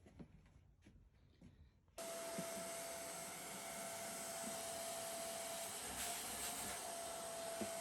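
Vacuum cleaner switched on about two seconds in, then running steadily with a constant whine, sucking up the dust left under a pulled-up carpet.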